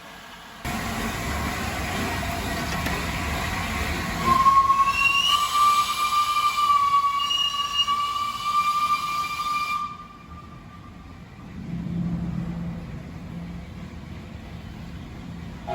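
Steam locomotive whistle blowing one long blast of about five seconds, a steady high tone that rises slightly at the start, over the rumbling noise of the train. After the blast a quieter low rumble continues.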